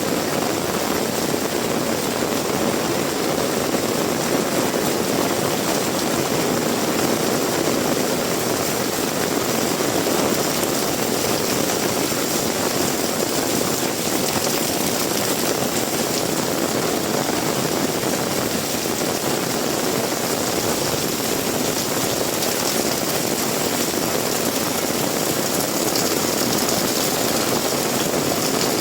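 Heavy rain falling, a dense steady hiss that holds an even level throughout.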